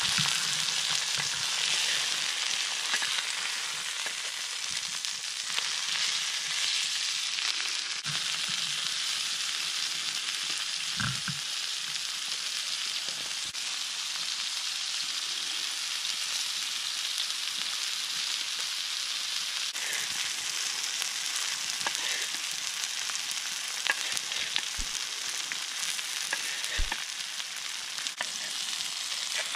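Burger patties and sliced onions sizzling steadily in a Muurikka steel frying pan over a campfire, with a few sharp clicks here and there.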